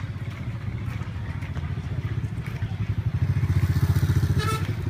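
Long-tail boat engine running with a rapid, even pulse, growing louder about three seconds in.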